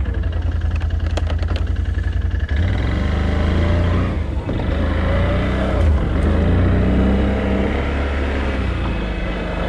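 A vehicle's engine running steadily while moving, with a heavy low rumble and a pitch that rises and falls slightly as its speed changes.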